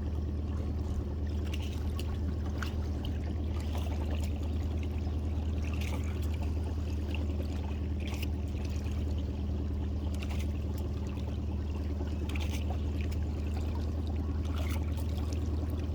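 Boat motor running slowly with a steady low hum, with water trickling and dripping and scattered light splashes and clicks over it.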